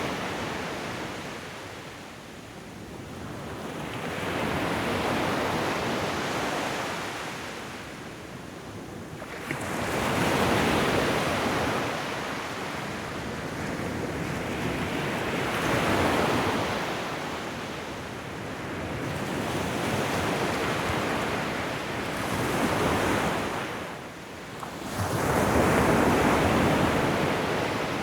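Ocean waves breaking and washing up a shore, the surf swelling and falling back in slow surges about every five or six seconds.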